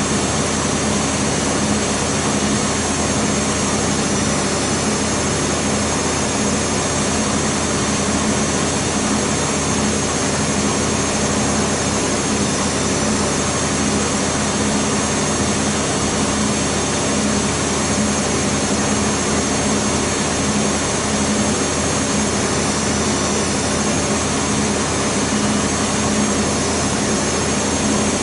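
Beko WMB 51441 washing machine spinning its drum at high speed, the 1000 rpm final spin of the wash cycle: a steady, even whir and hum that holds at one pitch and level throughout.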